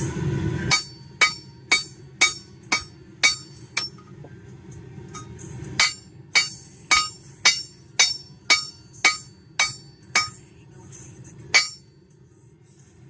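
Hand hammer striking a hot railroad spike on an anvil to draw the metal out: sharp blows about two a second, each with a short metallic ring, in two runs with a brief pause between and one last blow near the end.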